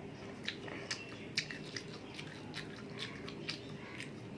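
A person chewing a mouthful of masala dosa close to the microphone, with wet mouth clicks and smacks about twice a second.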